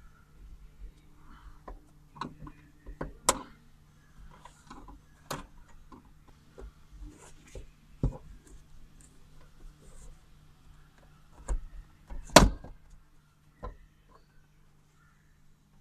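Scattered clicks and knocks as a car sun visor is unclipped and handled, with sharp snaps about three seconds in and about twelve seconds in, over a faint steady hum.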